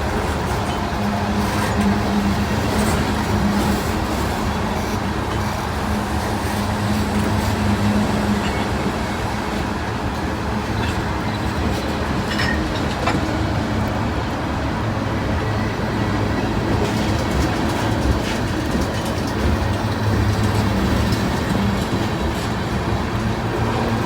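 Mixed manifest freight train creeping slowly past, its cars rolling by with steady wheel noise, a low steady hum and scattered clicks.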